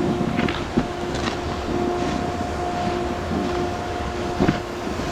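Wind buffeting the microphone while snowboards slide over icy snow, with a few short, sharper scrapes of board edges on ice. A steady whine runs underneath.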